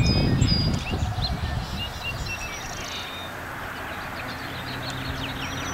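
Birds chirping in short, high calls, with a low rumble in the first second and a steady low engine-like hum coming in about four seconds in.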